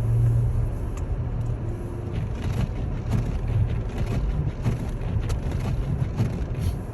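Car driving on a snowy road, heard from inside the cabin: a steady low engine and road rumble, with scattered light clicks and ticks from about two seconds in.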